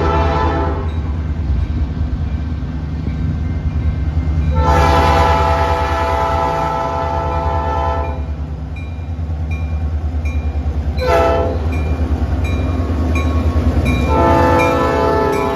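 Freight train's diesel locomotive horn blowing the grade-crossing signal: the end of a long blast, then a long blast, a short one and a final long one, over the steady low rumble of the diesel engines.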